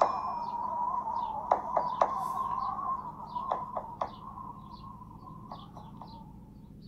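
Birds chirping in short repeated calls over a wavering tone, with a few clicks, all fading out.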